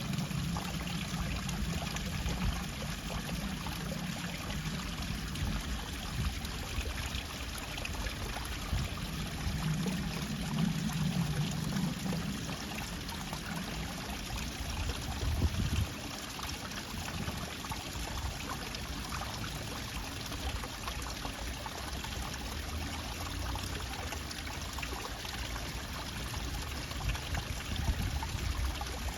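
Steady flowing, trickling water of a stream. A low drone rises under it twice, in the opening seconds and again around ten seconds in.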